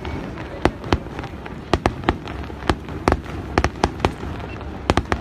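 Aerial fireworks shells bursting in rapid succession: about fifteen sharp bangs at uneven spacing, some coming in quick pairs.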